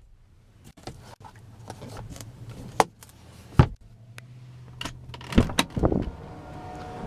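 Scattered clicks and knocks from car interior fittings being handled, over a low steady hum. The sharpest knocks come about three and a half seconds in and again about five and a half seconds in.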